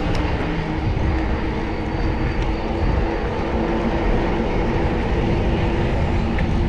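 Street traffic heard from a moving bicycle: steady engine hum of nearby vehicles with road and wind rumble.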